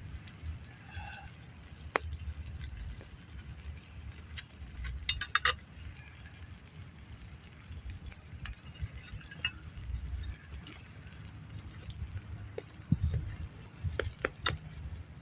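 Scattered sharp clicks and clinks from campfire cooking over a low steady rumble, with quick clusters of clicks about five seconds in and again near the end.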